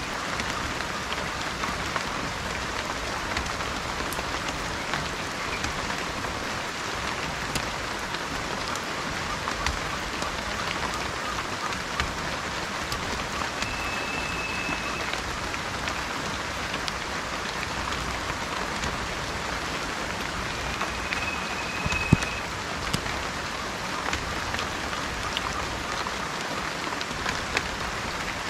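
Steady rain falling on a surface, an even hiss with scattered individual drop clicks and one sharper drop about three quarters of the way through. A short, high, steady bird whistle sounds twice, about halfway and again a little later.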